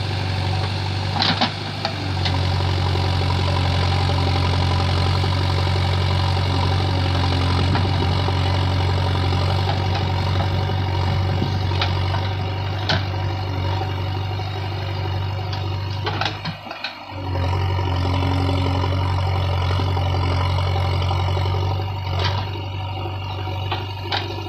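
JCB 3DX backhoe loader's diesel engine running steadily, with a few sharp knocks. The engine sound drops out briefly a little past halfway, then resumes.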